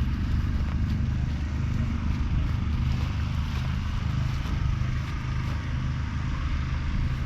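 JCB Fastrac 4220's 6.6-litre six-cylinder diesel engine running steadily with a deep, even drone.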